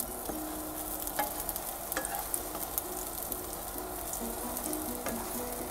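An egg frying in olive oil in a granite-coated nonstick pan, sizzling steadily while a wooden spatula stirs and breaks it up, with a few light taps of the spatula against the pan.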